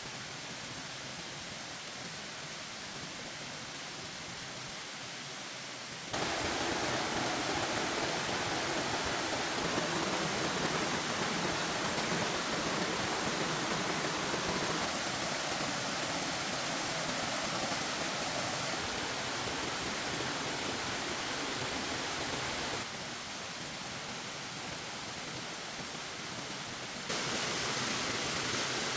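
Steady rushing noise of outdoor ambience, with no distinct events. It steps abruptly louder about six seconds in, drops back for a few seconds near the end, then rises again, as separate clips are cut together.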